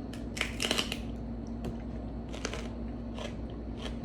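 A person biting and chewing crunchy food close to the microphone: a quick run of crunches about half a second in, then single crunches roughly once a second, over a steady low hum.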